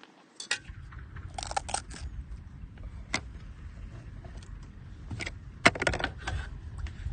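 Cooking utensils and glass jars being handled, giving sharp clinks and knocks in a few quick clusters, the busiest a little before the end, over a steady low rumble.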